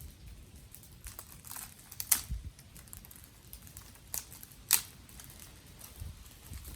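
Dry twigs crackling and snapping: irregular faint crackles with a few sharp snaps, the loudest about two seconds in and again near five seconds in.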